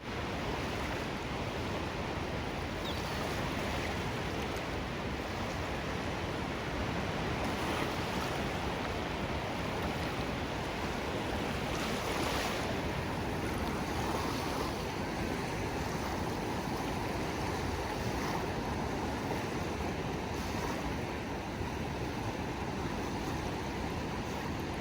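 Ocean waves washing onto a shore: a steady rushing surf noise that swells a little now and then.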